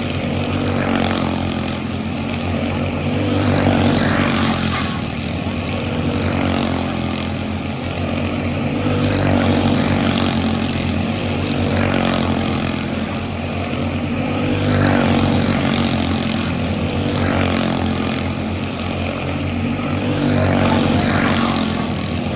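Quarter-midget race car engine, a small single-cylinder motor, running hard under race load. Its level swells and eases again about every five to six seconds.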